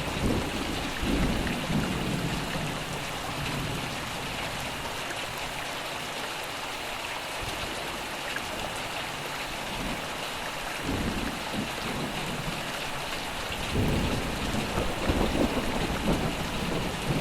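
Steady rain falling, with rolling thunder rumbling at the start, again about two-thirds of the way through, and once more near the end.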